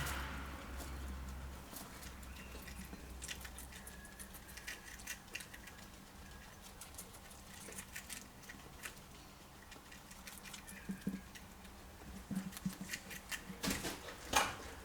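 Guinea pigs munching cucumber: a stream of small crunching clicks, growing busier and louder near the end.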